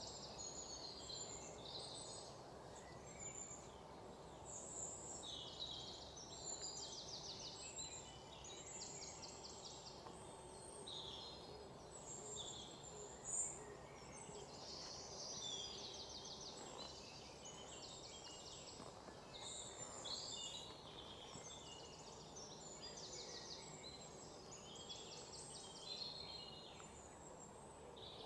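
Small birds chirping and trilling over and over, faint, over a steady low background hum. A single short click about thirteen seconds in.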